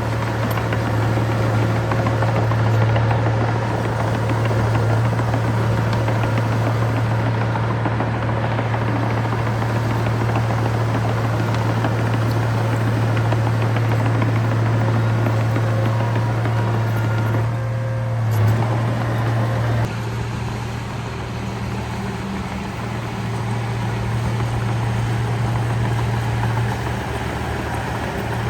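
Diesel engine of heavy earthmoving machinery running steadily with a deep, continuous drone; the engine eases off and runs a little quieter about twenty seconds in.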